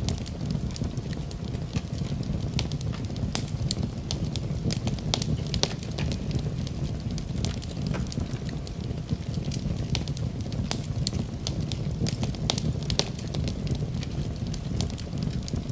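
Wood fire in a fireplace crackling, with frequent irregular pops and snaps over a steady low rumble of the burning logs.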